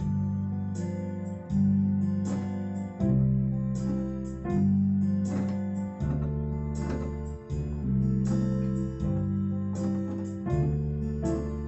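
Instrumental backing track of a children's song on electronic keyboard, with no melody or singing: sustained bass notes and chords struck in a steady beat, a new attack about every one and a half seconds.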